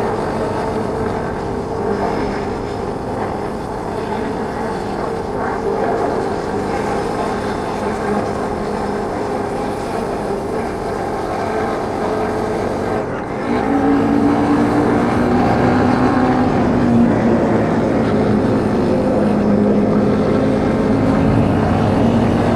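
Motorbike engine running while riding, a steady drone over wind and road noise. About halfway through it gets louder, with a lower steady hum.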